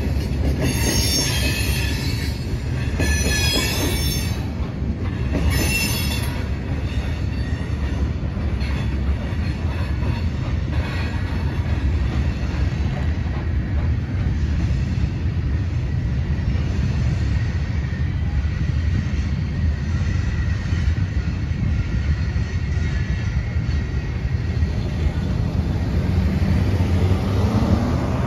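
Norfolk Southern gravel train's hopper cars rolling past, wheels squealing in pulses for the first several seconds, then a steady low rumble. Near the end a road vehicle pulls away with a rising engine note.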